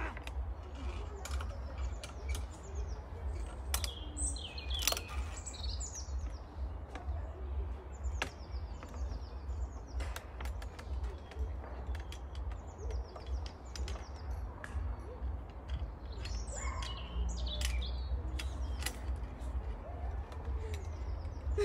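Small birds singing in the trees: short, high chirping phrases repeated every second or two. Underneath are a steady low wind rumble on the microphone and scattered sharp clicks.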